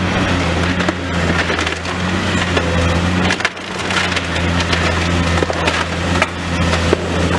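Demolition excavator's diesel engine running steadily while its attachment crunches and breaks up building debris, with scattered cracks and knocks of splintering material.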